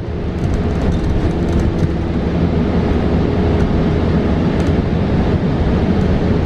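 Inside a New Flyer XE40 battery-electric bus on the move: steady low road rumble and cabin noise with a faint steady hum. It grows a little louder over the first second, then holds.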